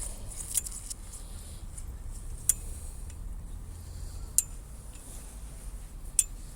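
Four sharp clinks, evenly spaced about two seconds apart, over a steady low rumble.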